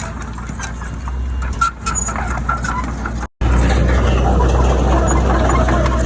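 Heavy diesel engine of earthmoving machinery running steadily. About three seconds in the sound breaks off for an instant and comes back louder.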